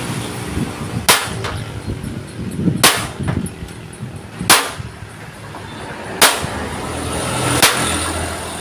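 Hammer blows on a steel plate: five sharp metallic strikes at an even, unhurried pace, about one every second and a half.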